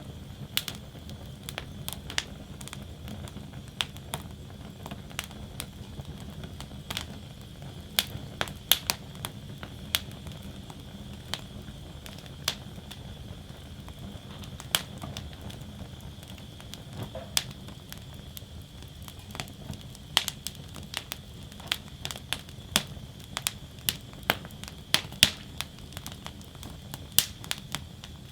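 Wood fire burning in a fire basket: a steady low rush of flames with irregular sharp crackles and pops from the burning wood.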